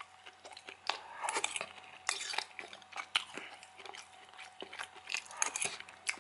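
Close-miked chewing of food, with many short mouth clicks and a fork now and then clinking against the dish.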